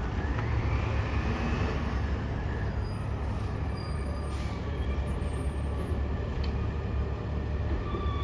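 Garbage truck's diesel engine running as the truck approaches, a steady low rumble with a faint rising whine in the first two seconds.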